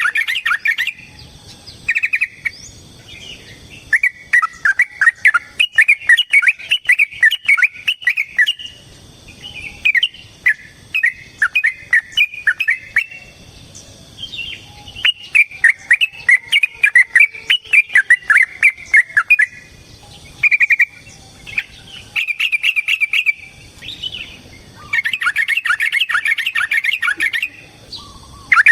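Yellow-vented bulbul singing in long runs of rapid, bubbling chattering notes, several phrases a few seconds long with short pauses between them.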